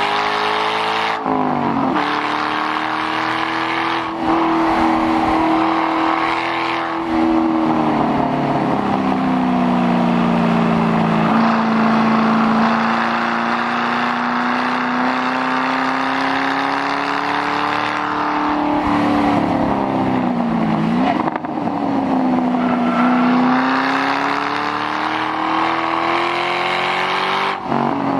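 2006 Ford Mustang GT's 4.6-litre V8 with the mufflers deleted, driven hard. The engine note climbs and falls with the revs, with brief drops at gear changes and a sharp dip and pickup about two-thirds of the way through.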